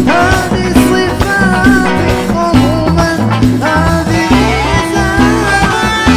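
Band playing live Gulf Arabic pop: a steady drum beat and bass line under a wavering melody line.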